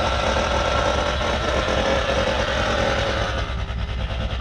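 1958 Edsel's V8 engine running as the car is driven, with a steady low rumble; its higher engine note drops away about three seconds in.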